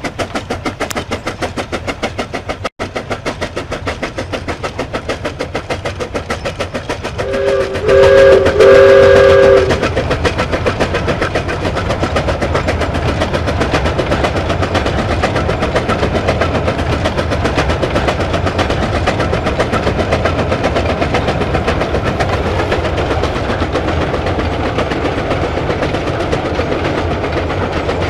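Train running with a fast, even rhythmic clatter over a steady rumble. About seven and a half seconds in, its two-tone horn sounds in three short blasts over about two seconds, the loudest thing here.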